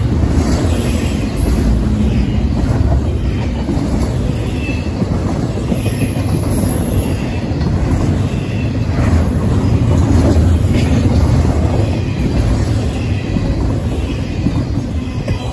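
Double-stack intermodal freight train's well cars rolling past close by: a loud, steady rumble of steel wheels on the rails.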